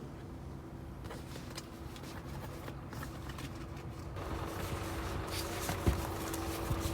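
Scattered light knocks and rustling as things are shifted around inside a small car, over a steady low hum, with one sharper thump near six seconds.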